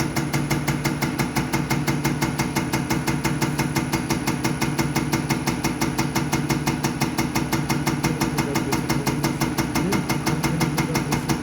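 Diesel injection test bench driving a Bosch 0414799005 unit pump at steady speed during a measurement run: an even mechanical hum with rapid, regular ticking from the pumping strokes.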